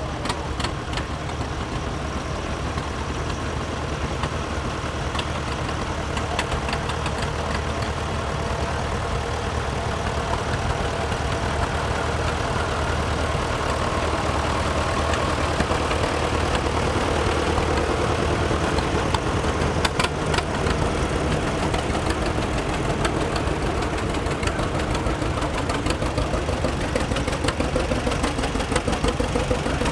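Antique farm tractor engines running at low speed, a steady chugging that grows a little louder toward the middle.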